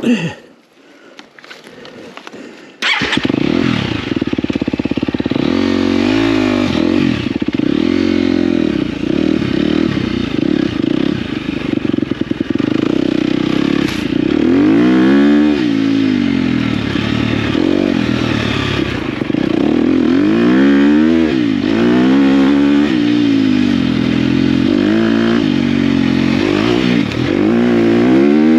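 KTM dirt bike engine coming in abruptly about three seconds in, then revving up and down over and over as the bike is ridden.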